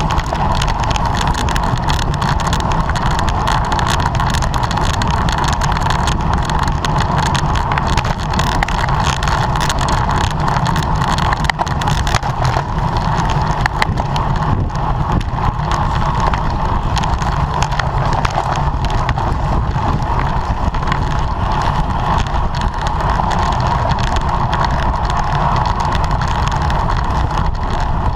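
Steady rush of wind buffeting the microphone of a camera carried on a racing bicycle at speed, over a constant rumble of tyres on the road.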